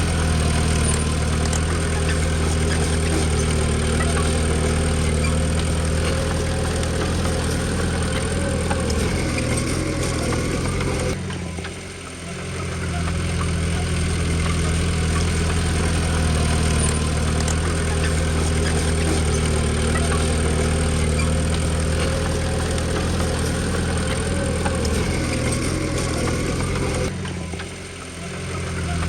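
Diesel engine of a Komatsu D20P bulldozer running steadily, its sound dipping briefly twice, about twelve seconds in and near the end.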